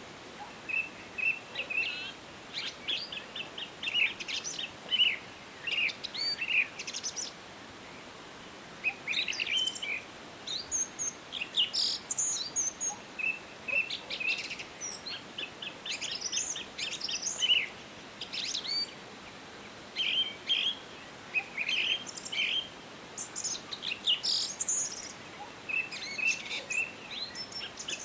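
Several songbirds singing and calling together: short chirps, rapid trills and quick repeated notes, over a faint steady hiss of forest background.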